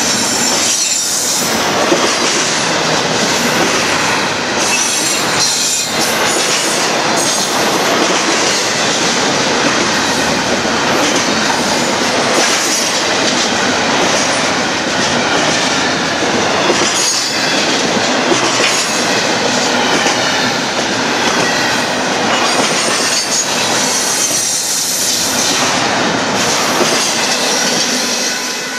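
Cars of a Union Pacific container train rolling past at close range, a steady loud rumble and clatter of steel wheels on rail with high-pitched wheel squeal mixed in.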